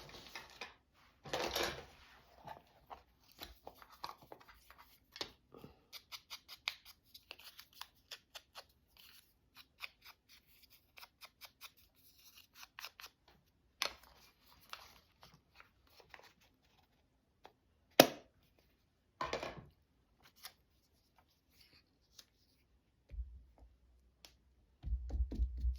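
Scissors snipping paper in a long run of small, quick cuts, with paper rustling and one sharp, louder click partway through.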